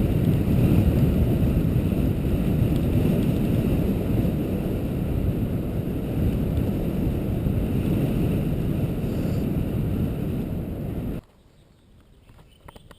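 Wind buffeting the microphone, a heavy low rumble that drowns out everything else. It cuts off suddenly about eleven seconds in, leaving a quiet background with a few faint clicks.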